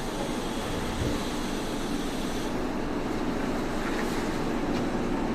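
Saitama Railway 2000 series electric train running at speed, heard from inside the car: a steady rumble of wheels on rail. There is a single low thump about a second in.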